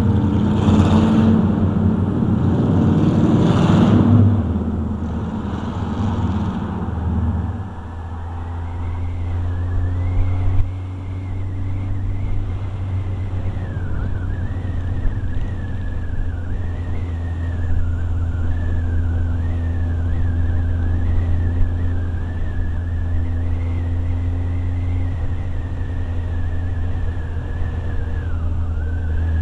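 Motorcycle engine running at a steady cruise, with the rush of riding wind louder for the first few seconds and a faint wavering high whine over the drone.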